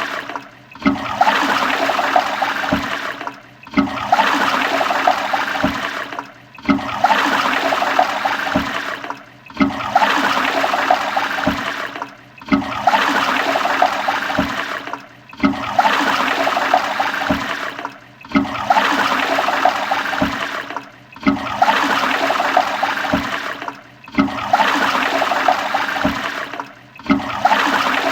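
Toilet flushing with a rush of water, a short flush that starts suddenly and fades, then repeats about every three seconds with a brief dip between repeats.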